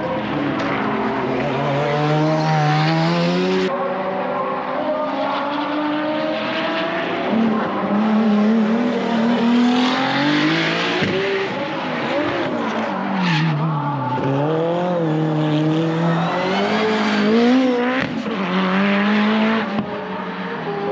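Race car engines running hard on a circuit, the pitch climbing through the revs, dropping at shifts and braking, then climbing again several times over.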